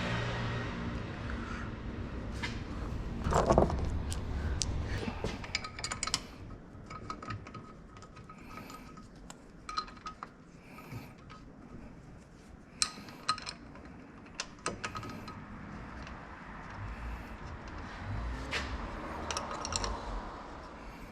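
Scattered light metallic clinks and clicks, some with a short ring, typical of hand tools and metal parts being handled, over a low rumble that fades after the first few seconds.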